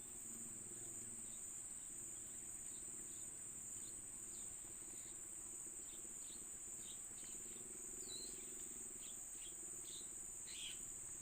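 A steady, high-pitched insect chorus of crickets or cicadas, with faint short chirps scattered through it, growing more frequent in the second half.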